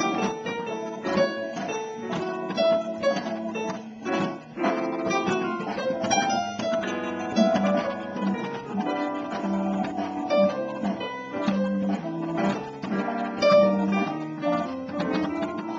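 Jazz piano improvising a solo line of quick single notes over a play-along backing track, with a walking bass line underneath.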